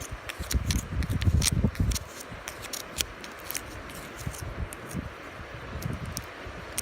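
Wood fire crackling, with irregular sharp pops and snaps, over a low rumble of wind on the microphone that is strongest in the first two seconds.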